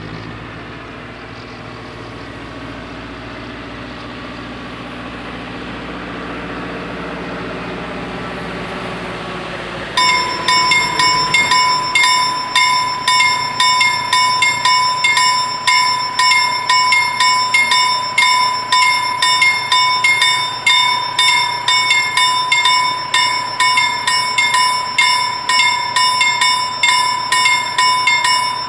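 Electric level-crossing warning bells start ringing suddenly about a third of the way in, with rapid, evenly repeated strikes. Before that there is a steady rumble with a slowly falling pitch.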